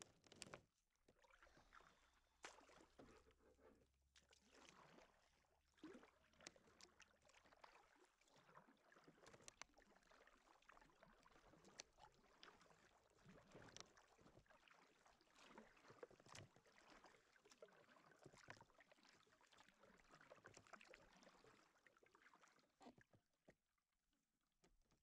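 Faint sounds of a kayak being paddled: paddle blades dipping and splashing in the water, with many scattered sharp clicks and knocks.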